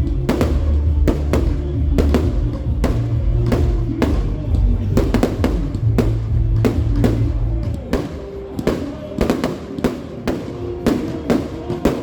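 Fireworks cracking and banging in quick, irregular succession over loud music with heavy bass; the bass drops away about eight seconds in while the bangs go on.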